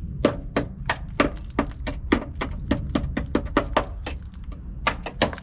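Rapid hammer blows on the steel bodywork of a car, about four a second, then a short pause before two more strikes near the end.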